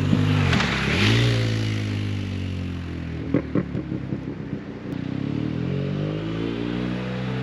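BMW R 1250 GS Adventure's flat-twin engine running through an Akrapovic stainless full exhaust with the catalytic converter deleted. It revs up and falls back early, gives a cluster of pops a few seconds in, then runs steadily with a slight rise in revs near the end.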